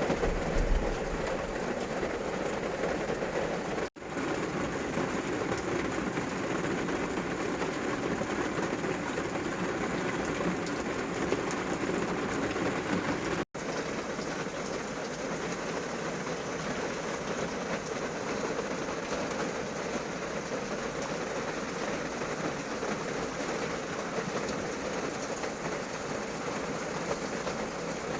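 Heavy rain falling steadily on a campervan, heard from inside, with two brief drops to silence about four and thirteen and a half seconds in.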